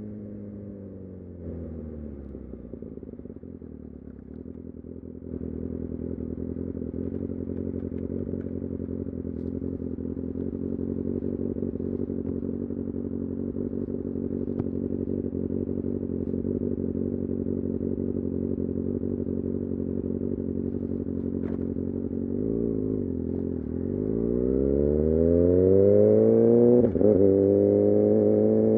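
Kawasaki Ninja ZX6R inline-four engine slowing to idle, idling steadily for about twenty seconds, then revving up as the bike pulls away, with a quick gear change near the end.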